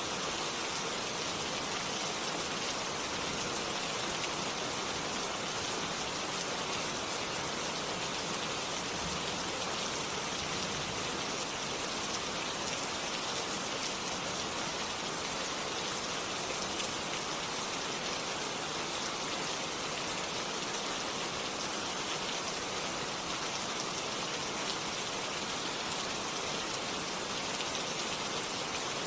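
Steady rain falling: an even hiss of many small drops pattering, unchanging throughout, with no thunder.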